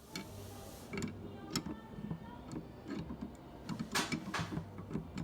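Irregular metallic clicks and knocks of hand tools working on a cylinder head, over a low steady hum.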